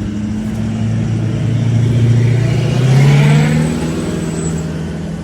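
A motor vehicle driving past close by, its engine note rising as it accelerates, loudest about three seconds in and then fading away.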